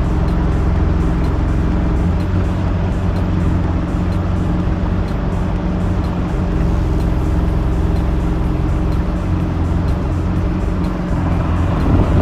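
Boat's outboard motor running steadily under way, a constant low drone that holds its pitch.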